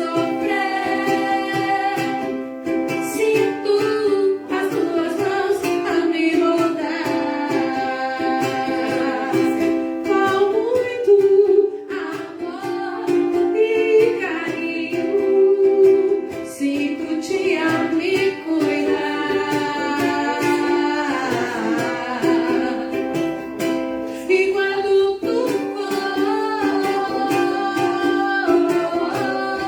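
A ukulele strummed as accompaniment while a voice sings a slow Portuguese devotional song, with long held notes that waver and bend in pitch.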